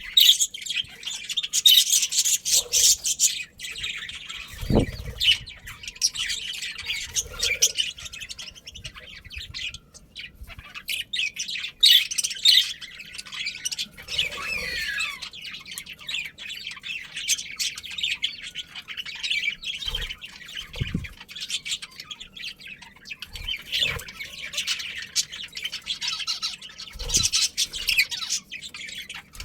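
Budgerigars chirping and chattering, a dense, continuous flock of small parrot calls and squawks. A few short low thumps come through now and then.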